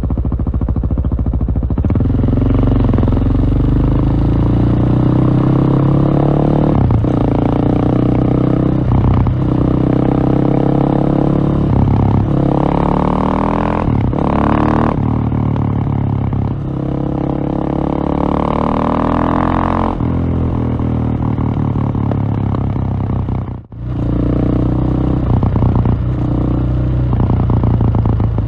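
KTM single-cylinder motorcycle engine riding under load, its note climbing and falling again and again as the throttle opens and closes. The sound drops away for a moment about three-quarters of the way through.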